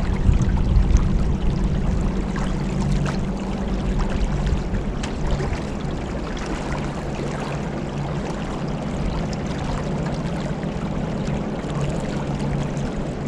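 Motorboat cruising: the engine hums steadily under a continuous rush and splash of water along the hull.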